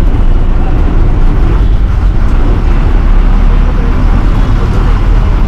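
Steady low rumble of a moving city bus: engine and road noise, heard from a passenger seat.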